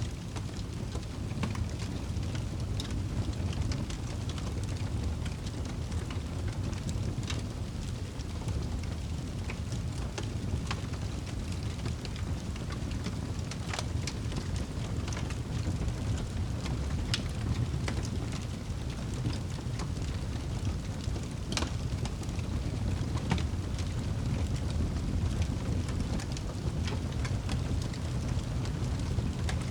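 Wood fire burning in a fireplace and crackling, with scattered sharp pops and snaps over a steady low rumble.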